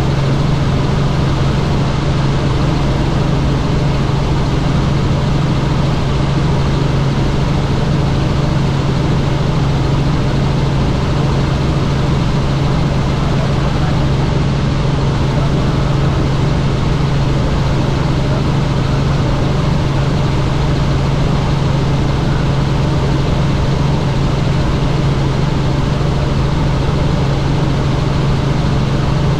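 Helicopter running in flight: a loud, steady drone of rotor and engine noise with a strong, constant low hum.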